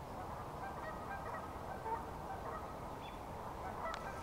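Faint, distant bird calls, a few short scattered notes over a quiet outdoor background, with a light click near the end.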